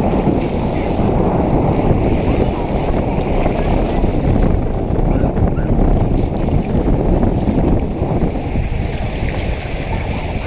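Strong storm wind gusting over the microphone: loud, steady wind noise low in pitch that covers everything else, easing slightly near the end.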